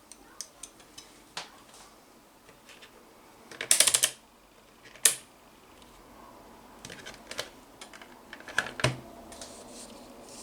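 Irregular clicks and clatter of small hard objects being handled, with a loud burst of rattling clicks about four seconds in, a single sharp click a second later, and more clusters of clicks near the end.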